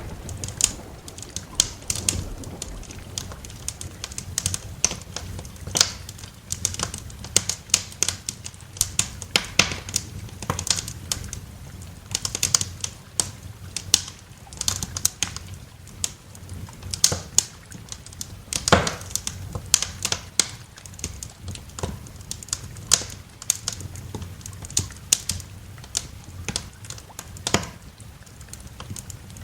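Wood fire crackling in a fireplace: irregular sharp pops and snaps, several a second, over a steady low background, with one louder pop about two-thirds of the way through.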